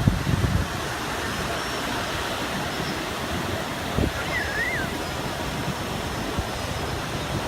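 Steady rushing outdoor noise with a faint high whine that comes and goes, and a short warbling squeal about four seconds in.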